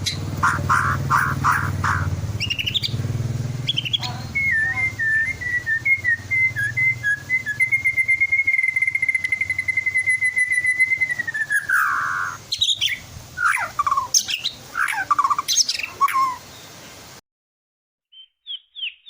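White-rumped shama singing a varied song of chirps and whistles, including one long steady whistled note held for several seconds, then quick falling phrases. The sound cuts out near the end, then a fast run of chirps starts.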